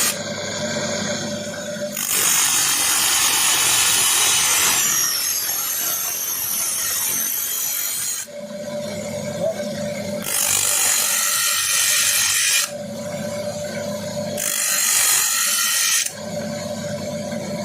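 Electric grinder running with a steady hum, broken three times by several seconds of harsh grinding as it is pressed against metal. The bottom of a motorcycle piston is being trimmed to fit.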